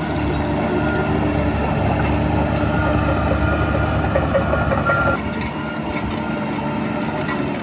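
Heavy earthmoving machinery's diesel engine running steadily, with a thin high squeal and some rattling in the middle that stop about five seconds in, after which it runs a little quieter.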